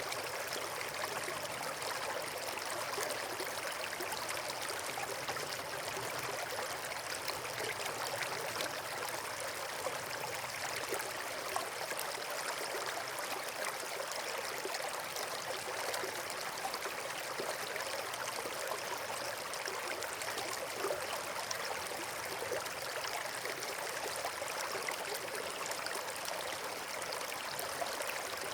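Flowing water rushing steadily, an even, unbroken noise with no change in level.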